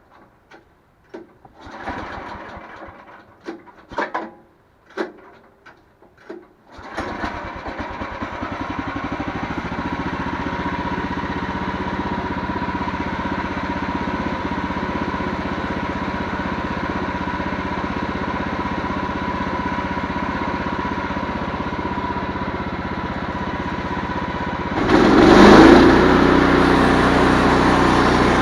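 Cold start of a Case 430's diesel engine: a few knocks and clicks, then about seven seconds in the engine catches and runs steadily. It gets clearly louder near the end.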